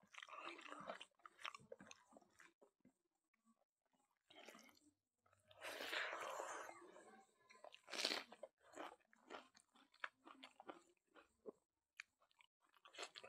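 Faint close-miked chewing of a mouthful of smoked pork and rice eaten by hand, coming in irregular bursts with short pauses, mixed with soft clicks from fingers working the food.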